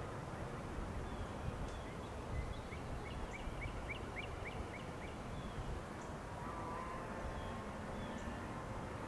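A bird calling: a quick run of short rising chirps, about five a second, lasting a couple of seconds, with a few fainter single calls around it, over a steady low background rumble.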